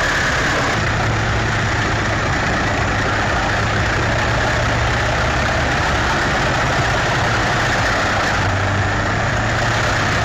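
Large mobile wood chipper running steadily at a forest landing: a constant engine hum under a dense, even machine noise, with no change in load.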